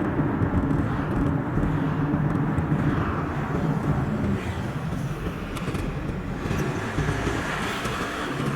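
A car driving on the road, with steady engine and tyre noise played back at double speed.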